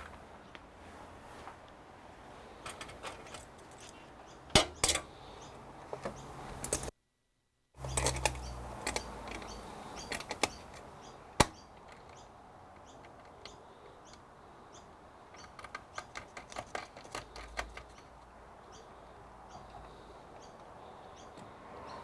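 Small metal cooler-mounting parts being handled and fitted: scattered sharp clicks and light rattles, with a quick run of clicks about two-thirds of the way through.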